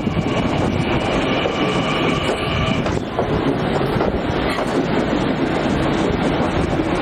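Long Island Rail Road electric commuter train running on the rails, with dense rumble and wheel clatter. A steady high whine sounds over it during the first three seconds.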